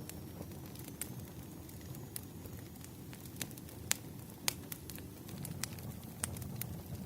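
Burning firewood crackling: a low steady rumble with sharp pops scattered irregularly, the two loudest a little before and just after four seconds in.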